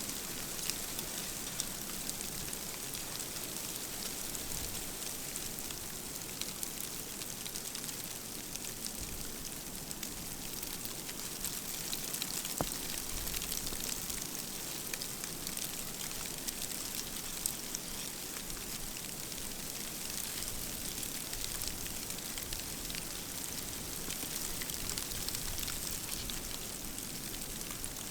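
Driving snow pattering on a hunting blind: a steady hiss with a constant fine ticking of flakes striking the blind's shell.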